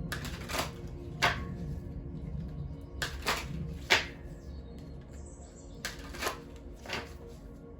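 Tarot cards being handled: about eight sharp, irregular snaps and taps as the cards are shuffled and laid down, over soft background music.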